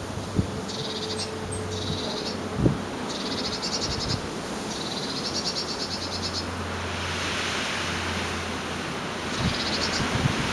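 Gale-force storm wind blowing steadily. A high, rapid rattling chatter from an unidentified source breaks in five times over the wind, the fourth run the longest.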